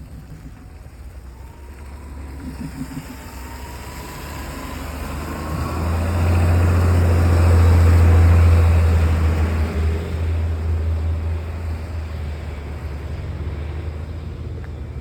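A motor vehicle passing close by with a low engine rumble that swells to its loudest about eight seconds in and then fades.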